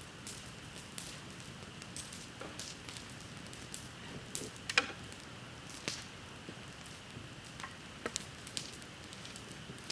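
Wood bonfire burning, with scattered crackles and sharp pops over a low steady hiss; the loudest pop comes a little before halfway.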